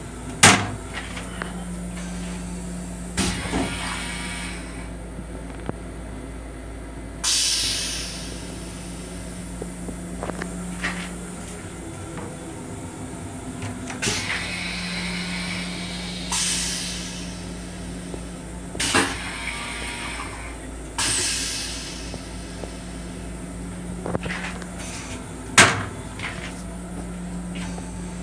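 Running noise of a Long Island Rail Road M7 electric railcar heard from inside its restroom: a steady rumble and a hum that comes and goes. Sharp clunks come every few seconds, loudest about half a second in and near the end, and there are several short falling hisses.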